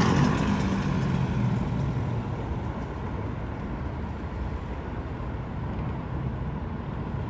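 Yamaha YZ85 85cc two-stroke dirt bike engine running, loudest at first and fading over the first few seconds to a steady lower level.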